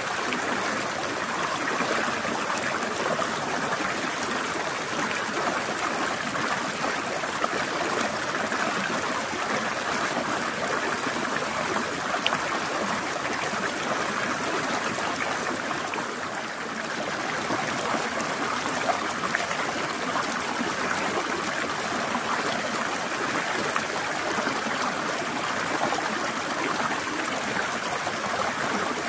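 Small mountain stream flowing and trickling over rocks, a steady water rush.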